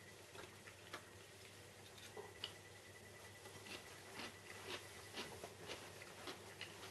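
Faint chewing of a mouthful of food, with scattered soft clicks and mouth sounds.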